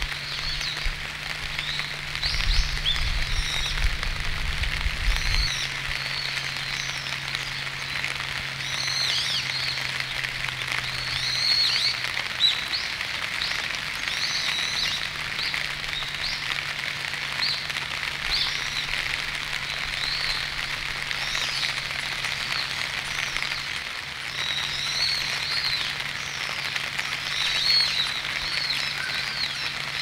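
Small birds giving many short, high chirping calls over a steady low hum.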